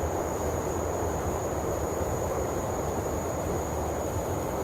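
Steady ambient background noise: a low rumble under a constant thin high-pitched whine, cutting off abruptly at the very end.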